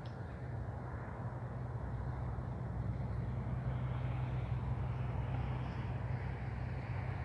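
Steady rumble of distant road traffic, swelling a little in the middle as a vehicle passes.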